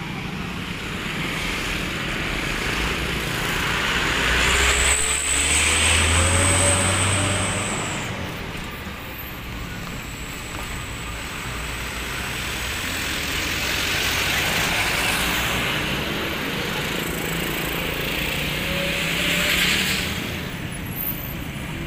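Train passing fast over a level crossing: a steady rushing rumble of the carriages that swells twice, with a thin high steady whine coming and going partway through.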